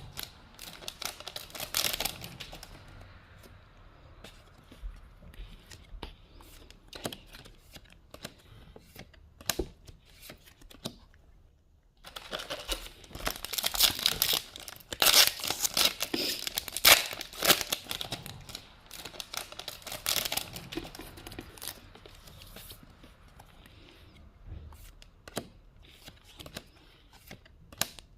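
Foil Pokémon booster pack wrapper being torn open and crinkled in two bouts, one at the start and a longer one about halfway through, with light clicks and rustling of handling in between.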